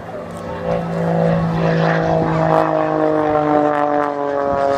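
Aerobatic biplane's 330 horsepower piston engine and propeller passing, getting louder about a second in, with its engine note falling slowly in pitch as it goes by.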